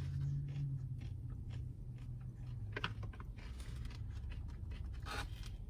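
A person chewing a mouthful of coleslaw, with small crunches and wet mouth clicks scattered through, over a low steady hum.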